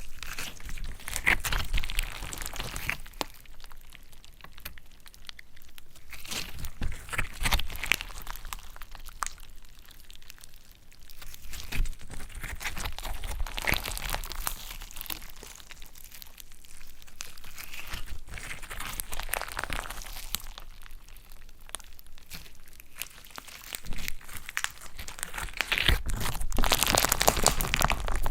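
Slime being squeezed and stretched by hand: repeated bursts of sticky crackling with many small clicks and pops, louder near the end.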